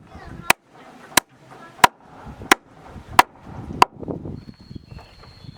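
Hammer striking nails into wooden floor planks, six sharp, evenly spaced blows about a second and a half apart each, stopping about four seconds in. A thin, high steady tone starts near the end.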